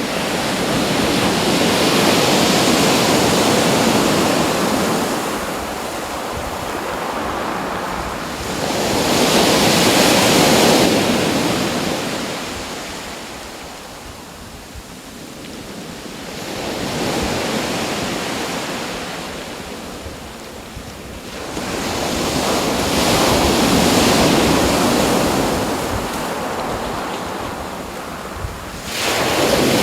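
Sea surf: waves washing in one after another, the rushing noise swelling and ebbing about every seven seconds.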